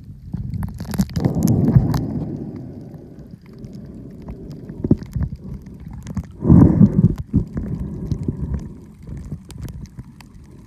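Muffled, low gurgling and sloshing of water around the microphone, with two louder surges, one about a second in and one past the middle, and scattered small clicks.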